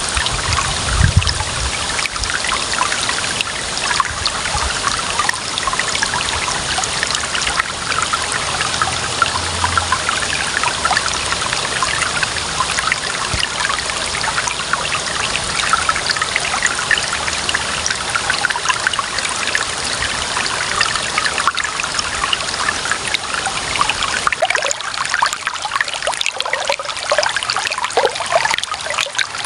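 Clear water running and trickling steadily, a dense splashing babble. After about 24 s the deep rumble drops away, leaving a lighter trickle.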